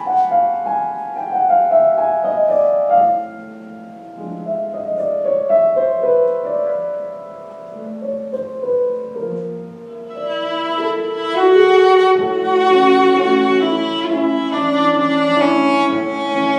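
Solo bowed string instrument playing a sustained, singing melody with piano accompaniment. The melody steps downward over the first ten seconds, and fuller piano chords come in about ten seconds in.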